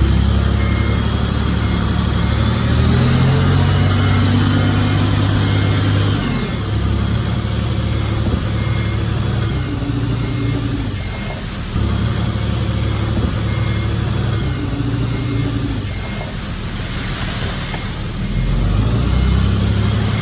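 Heavy earthmoving machinery at work: a large diesel engine running under load, rising in pitch a few seconds in and easing off about six seconds in, with a reversing alarm beeping steadily throughout.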